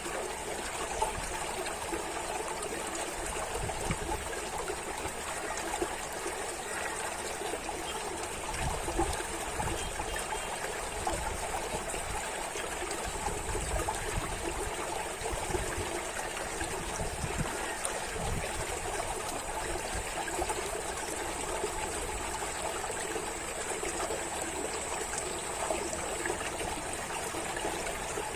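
Running water trickling and babbling steadily, like a small stream over stones, with a faint thin high hiss above it.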